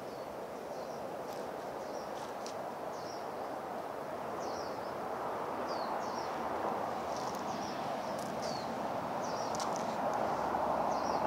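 Small birds chirping in short, high calls every second or so, over a steady rushing background noise that grows slightly louder near the end.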